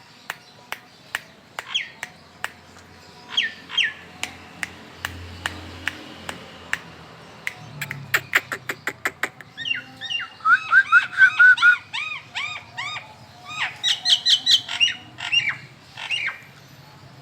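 Caged songbirds chirping in rapid runs of short, quickly rising-and-falling notes, loudest from about ten seconds in. Before that there is a steady series of sharp clicks, about two or three a second.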